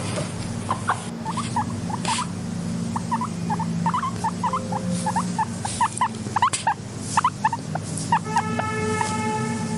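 Guinea pigs squeaking in quick, short chirps, several a second, over a steady low hum. Near the end one longer, held squeal.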